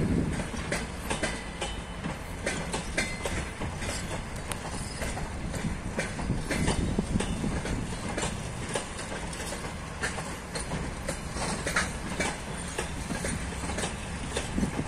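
Passenger coaches rolling past as the train arrives, their wheels clacking irregularly over rail joints over a steady low rumble.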